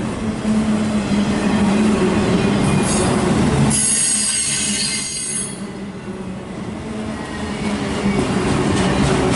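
Loaded autorack freight cars of a CSX train rolling past close by, steel wheels rumbling steadily on the rails. About four seconds in, a high-pitched wheel squeal rises for a second or two.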